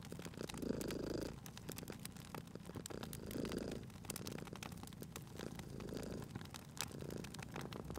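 Domestic cat purring, the purr swelling in slow cycles about every two to three seconds, over a wood fire crackling with frequent sharp pops.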